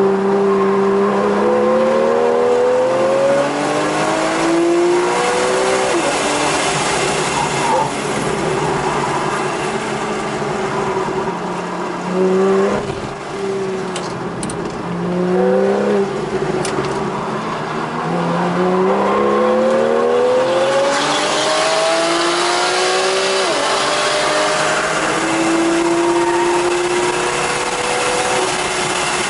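Porsche 911 GTS (991.1) 3.8-litre flat-six engine driven hard on a race track, heard from inside the cabin: the revs climb repeatedly through the gears and fall back under braking.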